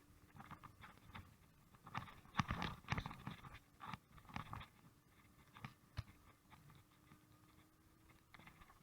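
Irregular crunching and scraping of bicycle tyres rolling over snow, in uneven bursts, with a faint steady hum underneath.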